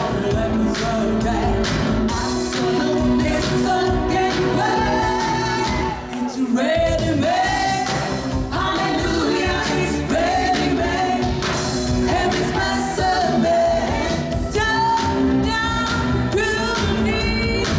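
A female singer sings a pop-disco song live over loud backing music, with a brief drop in the accompaniment about six seconds in.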